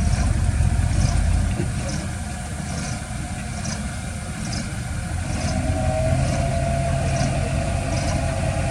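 Heavy diesel earthmoving machinery running with a low rumble. It is loudest at the start, eases off after about a second and a half, and builds again about five seconds in to a steadier hum.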